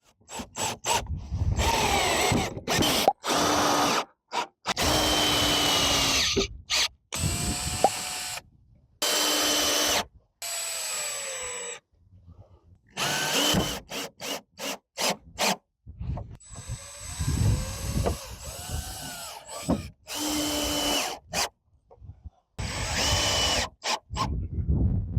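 Power drill run in many short bursts, starting and stopping repeatedly, its pitch rising and falling as the motor speeds up and slows.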